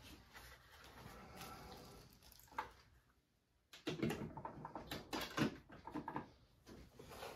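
Packaging being handled during an unboxing: rustling with light knocks and clatter, a short silent break about three seconds in, then busier handling noise.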